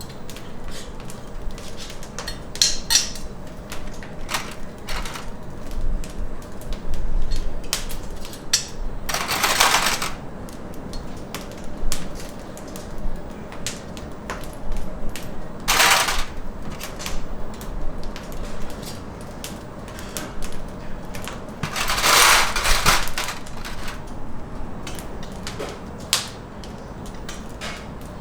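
A rapid, irregular run of clicks and knocks from hard objects being handled, with three louder hissing bursts of about a second each: one about a third of the way in, one just past halfway and one about three quarters through.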